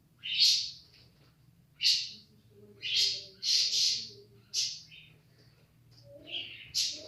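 A bird chirping: a string of short, sharp, high calls, about one a second, some in quick pairs.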